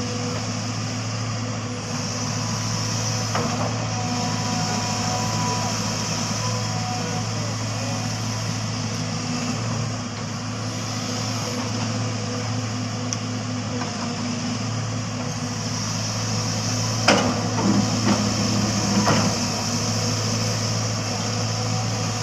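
Heavy truck's diesel engine running steadily, with a few sharp knocks or clanks near the end.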